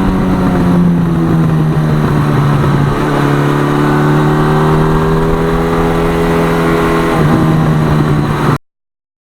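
1982 Suzuki GS1100E's air-cooled inline-four engine running under way. The engine note steps down about three seconds in, climbs slowly, and steps down again near seven seconds. It cuts off suddenly near the end.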